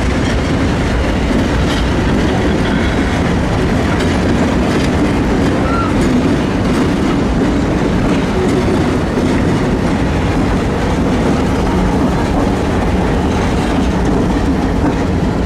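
A train rolling past at close range, its railroad cars' wheels clacking over the rail joints in a steady, loud run.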